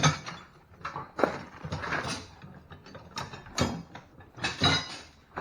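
Irregular clattering and rattling of small metal parts being handled and rummaged through, in uneven bursts.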